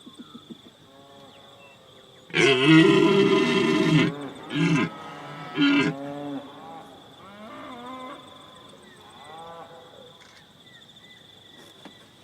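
A large animal calling: one loud, drawn-out call about two seconds in, followed by two short calls and fainter wavering cries.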